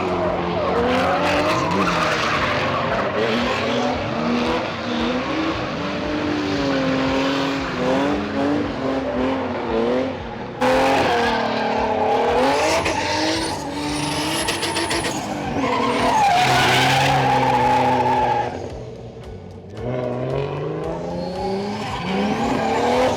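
Drift cars' engines revving up and down hard, with the hiss and squeal of tyres sliding on tarmac. The level drops briefly about nineteen seconds in.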